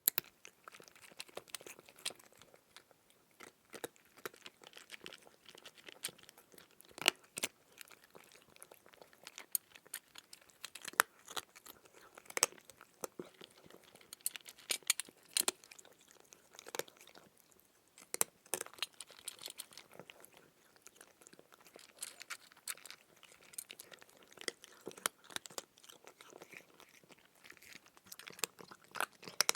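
Cat chewing food, with many irregular, sharp clicks close together throughout.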